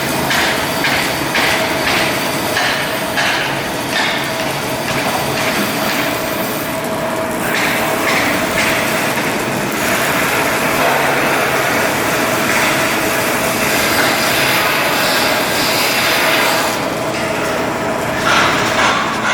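Shipbuilding steelwork noise: a run of metal knocks about twice a second for the first few seconds, then loud steady machine noise, with a constant hum running under it.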